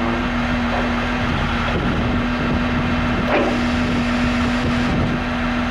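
Diesel engine of a large rubber-tired John Deere loader running steadily under load, with a constant hum over a low rumble.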